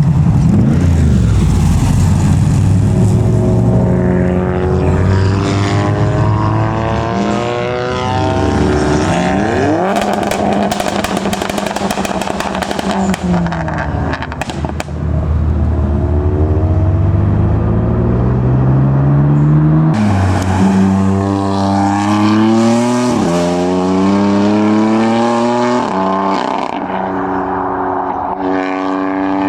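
Modified cars accelerating hard away, engine notes climbing in pitch and dropping back at each gear change several times over. About ten seconds in there is a rapid run of sharp exhaust pops and crackles.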